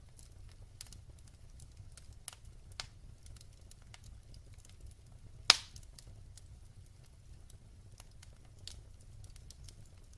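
Wood fire crackling in a fireplace: scattered small snaps and one loud pop about five and a half seconds in, over a low steady rumble.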